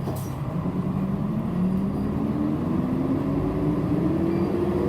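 City bus diesel engine heard from inside the cabin as the bus accelerates, its pitch rising steadily, over road rumble.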